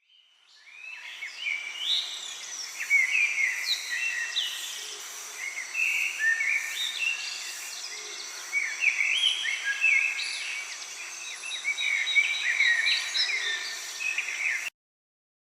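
Nature ambience: many songbirds chirping and whistling over a steady background hiss, with a high, evenly repeating chirp above them. It fades in at the start and cuts off abruptly near the end.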